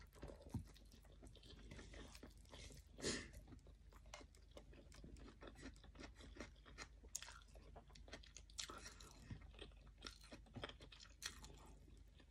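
Faint chewing of a mouthful of rice and fried omelette, with small mouth clicks throughout and a louder one about three seconds in.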